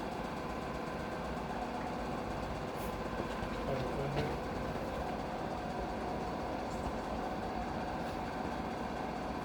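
Steady low background noise with a faint constant hum, with no distinct events.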